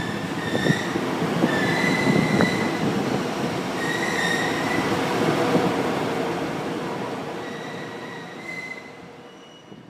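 Two-car GV-E400-series diesel railcar train moving through the station, its wheels squealing in several steady high tones over the rumble and clicks of the running gear; the sound swells and then fades away over the last few seconds.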